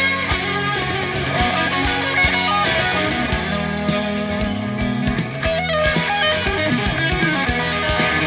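Instrumental 1970s hard rock: electric guitar playing over bass and a drum beat, with no singing.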